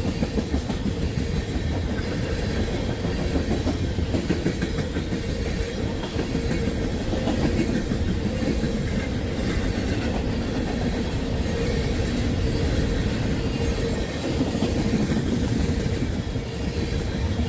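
Intermodal freight train's cars rolling past: a steady rumble with the clickety-clack of wheels over rail joints, and a steady hum-like tone over it.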